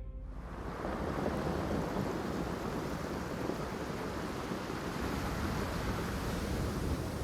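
Ocean surf and wind: a steady rushing noise that swells up over the first second.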